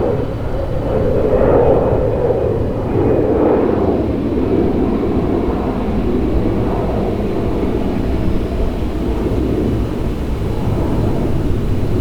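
Jet engine roar from a departing Boeing 747-400ERF freighter's four turbofans. It is a loud, steady rush over a deep rumble, swelling and easing in the first few seconds before holding even.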